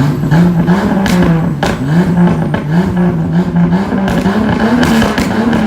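Jeep Cherokee XJ engine pulling hard through a loud aftermarket exhaust, its pitch climbing and then falling back several times as it accelerates.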